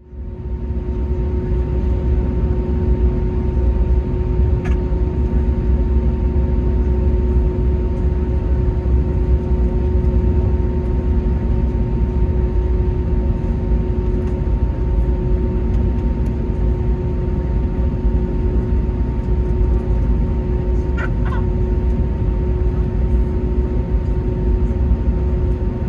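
Airbus A321neo running steadily at low power on the ground: a constant low rumble with a steady hum.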